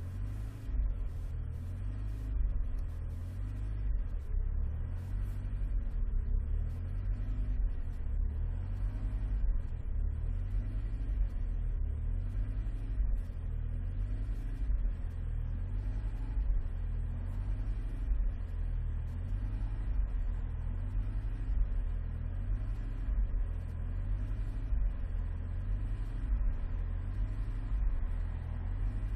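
Alfa Romeo 156 being driven, heard from inside the car: a low, uneven engine and road rumble that grows louder just after the start.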